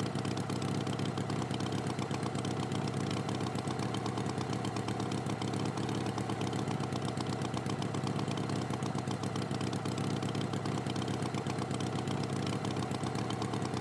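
Tractor engine running steadily at idle, an even fast pulsing throb.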